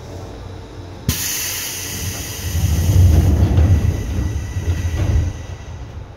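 Seibu 2000 series electric train running, heard from on board. About a second in, a sudden loud rushing hiss sets in, joined by a heavy rumble that swells and then drops away just after five seconds.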